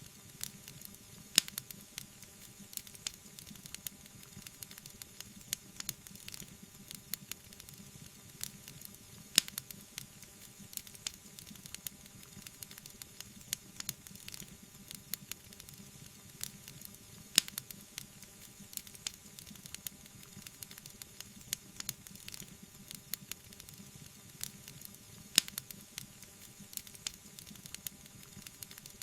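Wood fire crackling, with frequent small snaps and a louder pop about every eight seconds over a soft, steady hiss.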